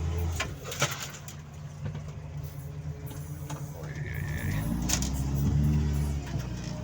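Toyota 1NZ-FE 1.5-litre four-cylinder engine of an all-terrain vehicle dropping back to a low idle, with a few knocks from the vehicle. About four and a half seconds in it revs up and runs on loud again, with a brief high squeal just before.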